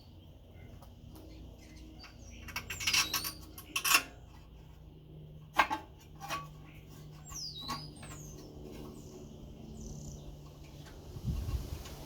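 Birds chirping with short high swooping calls, over a few sharp knocks and clatters. The loudest are a cluster about three seconds in and single knocks near four and five and a half seconds. A faint steady hum comes in partway through.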